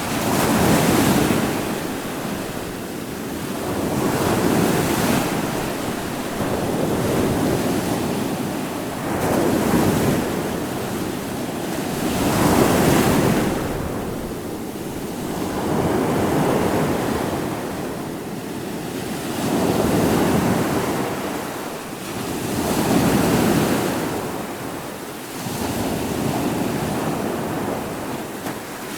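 Ocean surf: waves breaking and washing in one after another, the rush swelling and fading about every three to four seconds.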